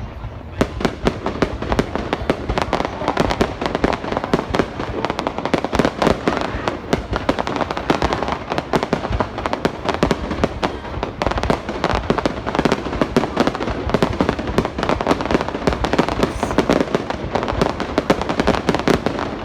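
Fireworks going off without a break: a dense run of overlapping bangs and crackles, many each second.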